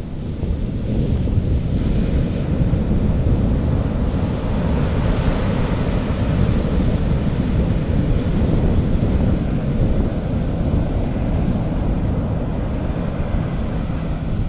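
Gentle sea waves washing onto a beach: a hissing wash that swells and then eases off near the end. Under it, wind buffets the microphone with a steady low rumble.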